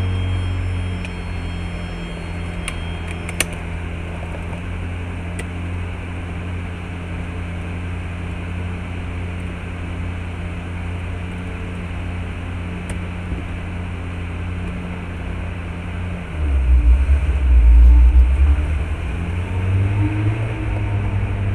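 Car engine idling while stopped, heard from inside the cabin as a steady low hum. About sixteen seconds in a louder, deeper rumble comes in for a few seconds as the car moves off.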